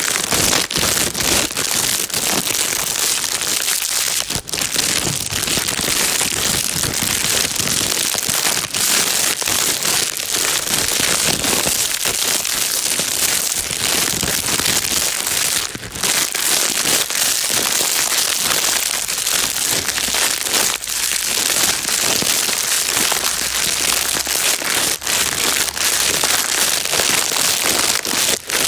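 Plastic bag being crinkled and rustled without pause: a dense, steady crackle with a few brief dips.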